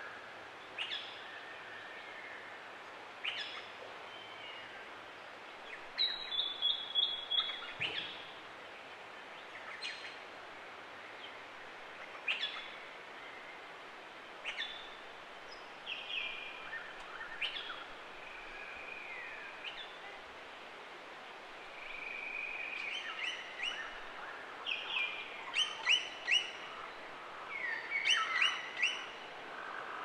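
Several forest birds calling over a faint steady hiss: scattered sharp down-slurred chirps, a short falling run of notes about six seconds in, a few held whistles past the middle, and a quick series of sharp repeated calls near the end.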